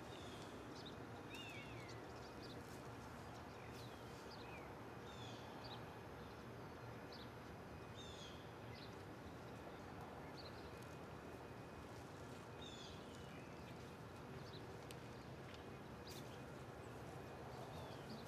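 Faint outdoor background noise with a low steady hum, and small birds giving short chirps on and off.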